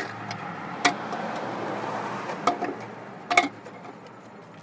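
A few sharp clicks and knocks of engine-bay parts being handled while hoses are hooked back up, the loudest a double knock about three seconds in, over a steady background hiss.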